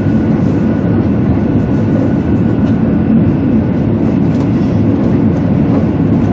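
A 200 series Shinkansen train running at speed, heard inside the passenger cabin: a steady low rumble and rush of running noise with a faint steady whine above it.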